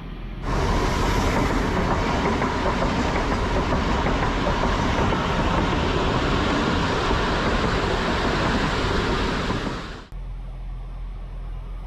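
Train running on rails: a loud, steady rushing noise that starts suddenly about half a second in and cuts off about ten seconds in.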